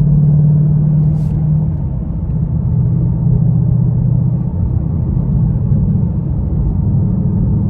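Ford Mustang GT's 5.0 V8 running steadily while driving, a low drone whose pitch drops slightly about two seconds in, then holds steady.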